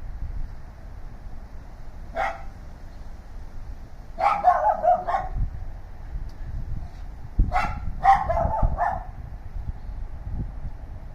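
Neighbour's dogs barking: a single bark about two seconds in, then two volleys of several barks each, around four and eight seconds, over a low background rumble.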